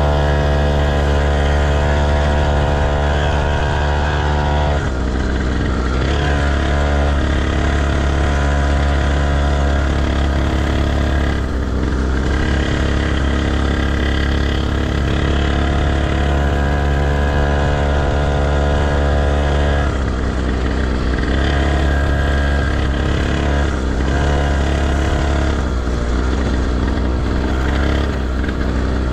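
Motocross motorcycle engine running loud and close, holding a steady pitch for several seconds at a time, with abrupt changes in pitch about five seconds and twenty seconds in.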